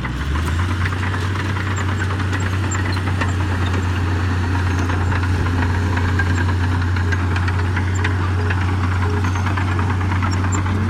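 Heavy diesel engine of earthmoving machinery running close by: it picks up about half a second in, then holds a steady low drone with a fast knocking clatter over it.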